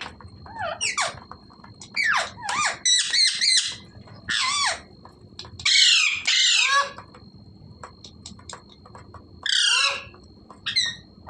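Green parrot, a rose-ringed (Indian ringneck) parakeet, giving a run of harsh squawks in about six bursts with short pauses; many of the calls slide downward in pitch.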